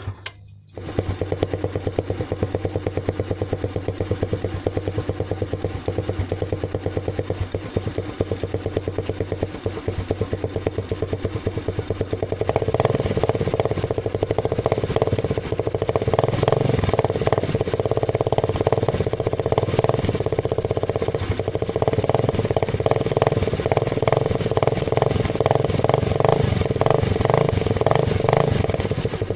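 Yamaha Mio Sporty scooter engine running through a homemade tin-can muffler. It runs steadily, with a brief gap just after the start. About halfway through it gets louder, with an even, pulsing beat.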